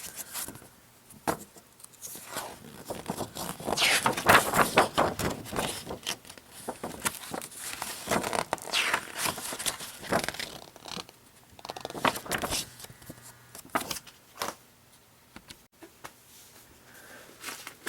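Paper car brochures rustling and crinkling as they are handled, with scattered clicks and scrapes; the busiest rustling comes about four seconds in.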